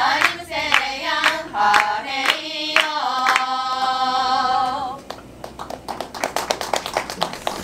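Group of singers performing a traditional Ainu song, with sharp rhythmic hand claps keeping the beat. The singing stops about five seconds in, and the clapping carries on more quietly after it.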